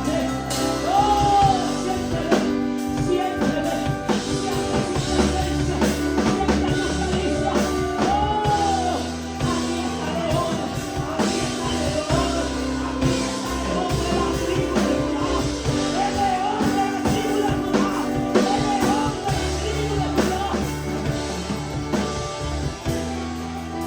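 Live worship music: a sung chorus over a band with drum kit, bass and guitar.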